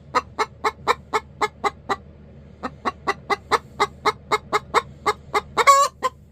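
Hen clucking in a fast, even run of short clucks, about four a second, pausing briefly about two seconds in, then going on and ending with one longer squawk near the end. The clucking is the sound of an agitated, annoyed hen.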